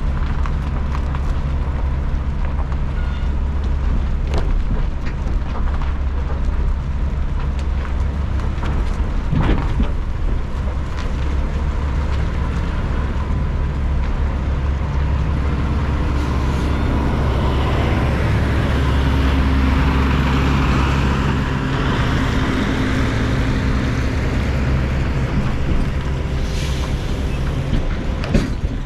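Semi truck's diesel engine and road noise running steadily while driving, with a louder rush of noise for several seconds past the middle.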